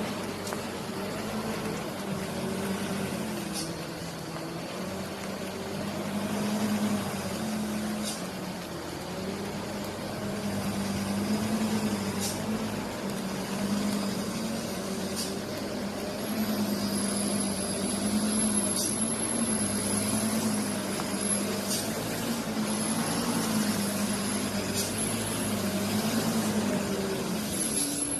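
Diesel truck engine running at low speed, its pitch wavering slightly up and down. There are faint ticks every few seconds, and a thin high whine comes and goes in the second half.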